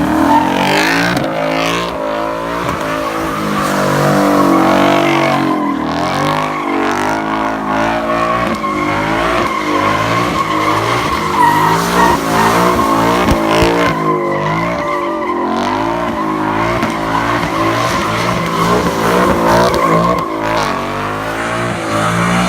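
Car doing a burnout: the engine is held at high revs, surging up and down, while the spinning tyres squeal continuously.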